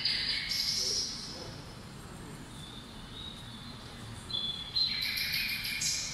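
Small birds chirping in two bursts of high, quick notes, one at the start and one near the end, over a steady low background hum.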